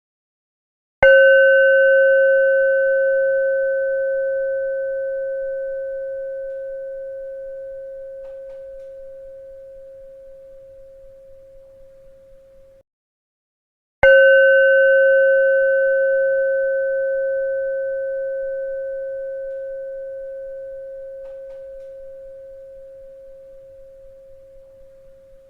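A bell struck twice, about thirteen seconds apart, each strike ringing on as one steady tone with fainter higher overtones and fading slowly. The first ring cuts off abruptly shortly before the second strike.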